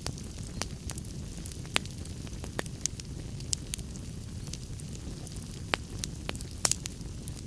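Wood fire burning in a fireplace: a steady low rumble of flame with irregular sharp crackles and pops, a few of them louder, around two seconds in and again near the end.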